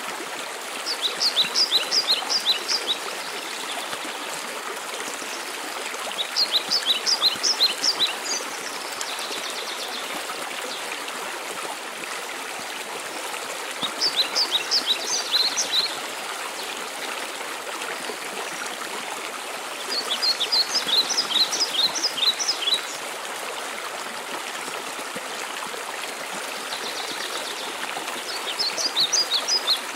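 Waterfall rushing steadily, with a songbird singing a short phrase of quick high notes five times, about every six to eight seconds. The bird phrases stand out above the water.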